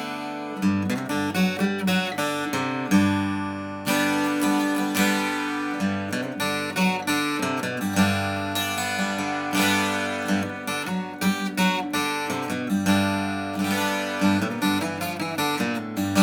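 Vintage Japanese acoustic guitar played, with chords strummed and single notes picked in a steady run, each attack ringing on.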